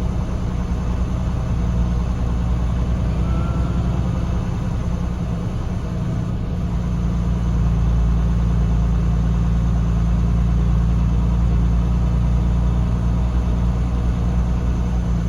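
Semi truck's diesel engine running steadily with a low drone, getting a little louder about halfway through.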